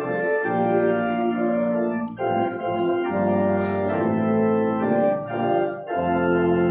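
Church organ playing slow, held chords, moving to a new chord every second or two, with short breaks between phrases about two seconds in and again near the end.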